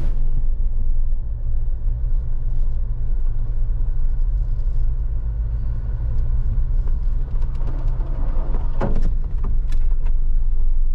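Off-road 4x4's engine running in a steady low drone while driving a snowy trail, with a few short knocks and clicks near the end.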